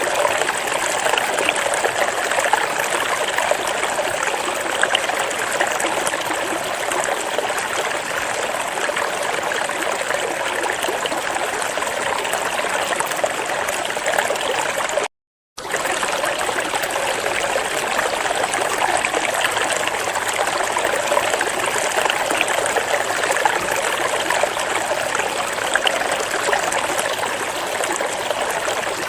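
Flowing water: a steady stream trickling and splashing, with a half-second dropout to silence about halfway through.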